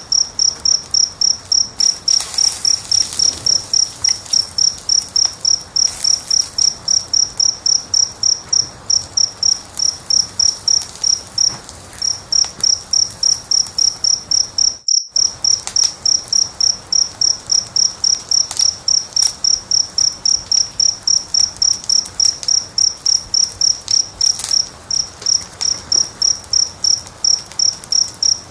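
A cricket chirping steadily, about three short high chirps a second, with faint crackles of a wood fire underneath. The sound drops out for a fraction of a second about halfway through.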